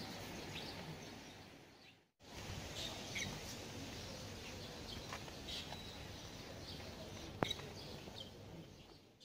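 Faint outdoor ambience with scattered bird chirps. There is a single sharp click about seven seconds in, and the sound drops out briefly about two seconds in.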